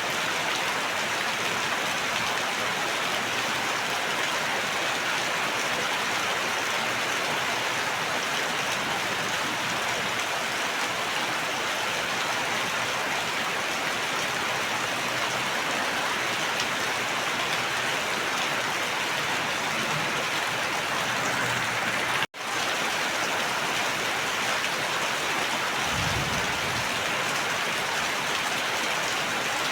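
Steady, dense rainfall, an even hiss of countless drops. It cuts out for an instant about two-thirds of the way through, and a faint low rumble follows a few seconds later.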